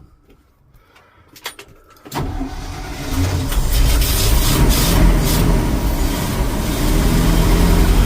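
A 1971 Ford C600 truck engine cold-starting on starting fluid. After a few faint clicks, it cranks and catches about two seconds in, then picks up and settles into a steady run.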